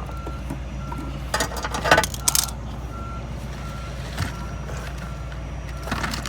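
A reversing alarm beeping steadily at one pitch, about three beeps every two seconds, over a constant low engine hum. Sharp metallic clanks come in a cluster a second or two in and again near the end, from hand tools working the oil filter under the car.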